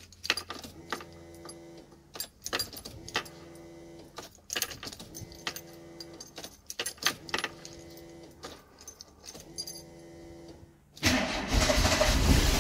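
A VW Golf GTI Mk2's electric fuel pump buzzing again and again for a second or so at a time as the ignition key is turned on and off to prime it, with key clicks and jingling between runs. About eleven seconds in, the engine cranks and fires on a cold start and runs loud.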